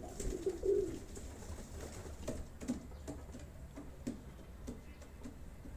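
Domestic pigeons cooing, a low wavering coo in the first second, followed by faint scattered taps and rustles.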